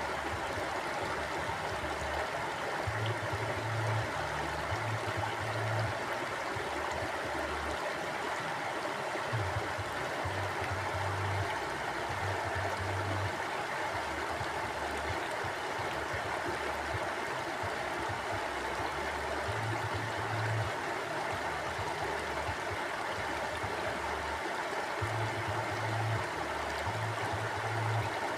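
Small stream flowing steadily over stones, an even rushing water sound with a low rumble that swells and fades every few seconds.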